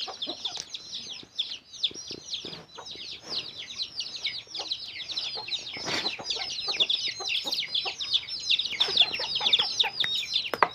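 Many small birds chirping at once: a dense, unbroken chatter of short, high, down-slurred calls, several a second and overlapping. A brief knock sounds about six seconds in.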